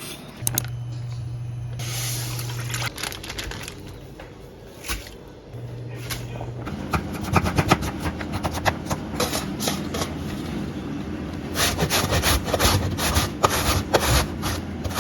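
Kitchen food preparation: a low steady hum twice in the first half, then a long run of quick scraping and clicking strokes from about halfway.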